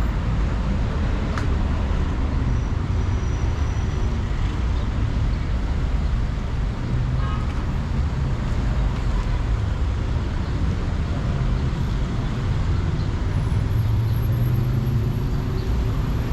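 Steady city road traffic: passing cars and other motor vehicles making a continuous low rumble of engines and tyres.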